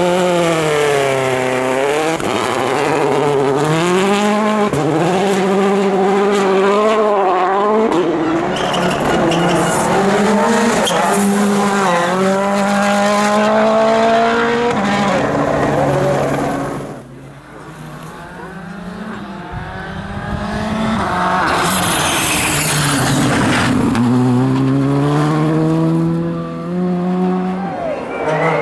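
2017 World Rally Car's turbocharged 1.6-litre four-cylinder engine revving hard, its pitch rising and falling again and again as it is driven flat out through the gears on a rally stage. About two-thirds through, the engine sound falls away briefly, then the revs climb again near the end.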